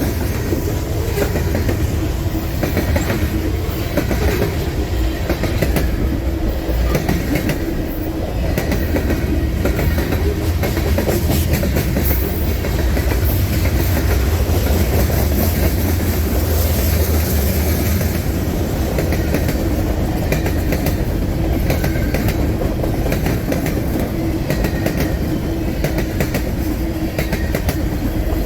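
Long freight train passing close by: a steady, loud, heavy rumble with the wheels clicking over the rail joints.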